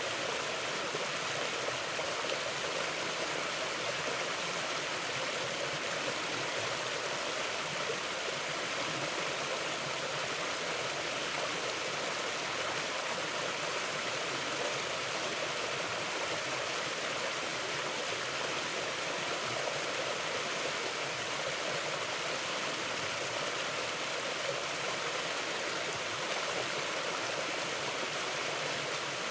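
Mountain river flowing steadily, an even, unbroken wash of running water.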